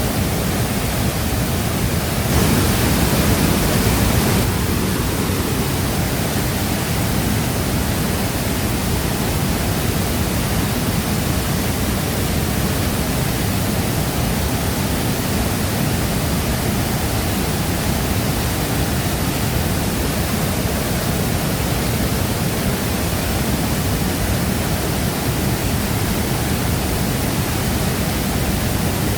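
Waterfall: a steady, dense rush of falling water. About two seconds in it swells a little louder for about two seconds, then settles back.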